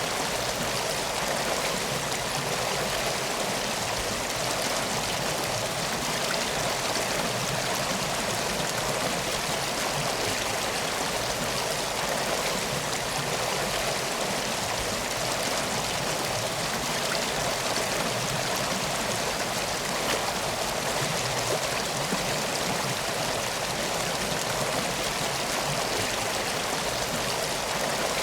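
A river flowing steadily: a constant, even rush of water.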